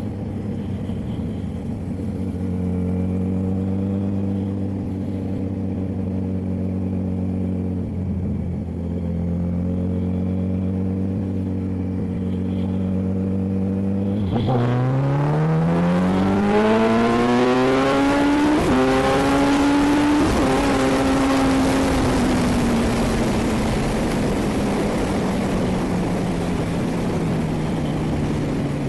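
Motorcycle with an aftermarket sport exhaust cruising steadily. About halfway through it accelerates hard: the engine pitch climbs fast, breaks briefly at a gear change, holds high, then slowly eases off. A rushing wind noise grows with the speed.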